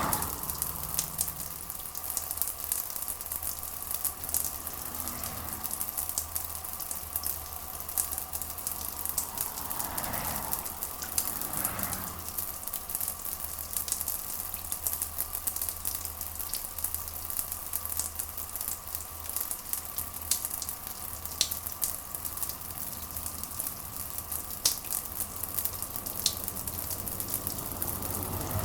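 Steady rain with a dense crackle of fine drops and a low rumble underneath.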